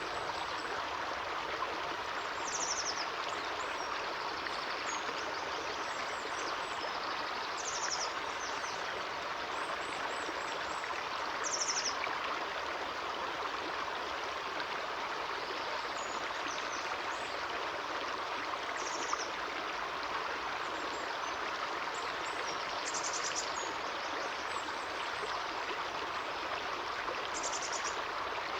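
Stream water running steadily, a continuous rushing. A bird's short, rapid high trills come through it every few seconds, about six times.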